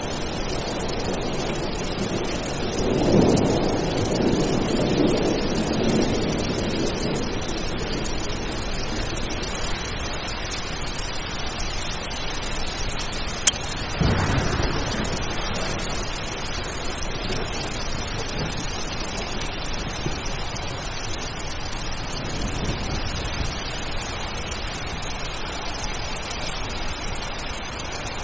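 Steady rain with rolling thunder: one rumble swells about three seconds in and fades, and a second rolls in about fourteen seconds in, just after a sharp click.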